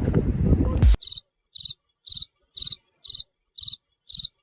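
A crickets-chirping sound effect over dead silence, about two chirps a second. It follows a second of outdoor noise that cuts off suddenly.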